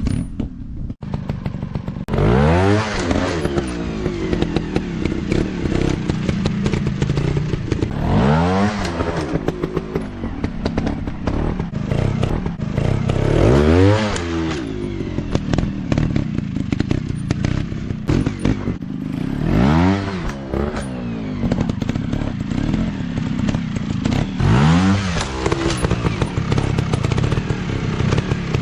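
Dirt bike engine running, its pitch rising and falling in five bursts of revving about every five to six seconds, with clattering and knocks in between.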